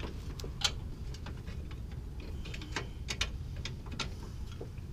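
Hand tools clicking on a suspension bolt and nut: light, irregular clicks, some in quick little clusters, over a low steady hum.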